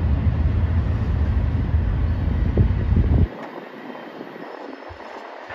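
BNSF diesel locomotives starting away with a double-stack intermodal train, their engines and the rolling cars making a steady rumble with a noisy haze above it. A heavy low rumble, most likely wind buffeting the microphone, cuts off abruptly about three seconds in, leaving the train sound quieter.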